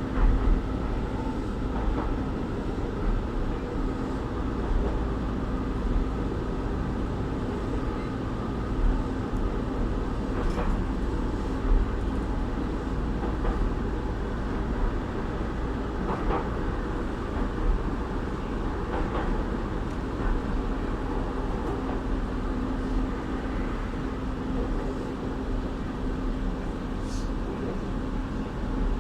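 Keihan Keishin Line train running on the street-running track, heard from inside the car: steady running noise of motors and wheels on rails with a low steady hum and occasional short clicks.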